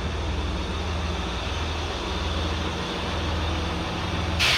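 Great Western Railway passenger train running slowly along the platform and drawing to a stop, a steady low rumble. A short burst of hiss comes right at the end.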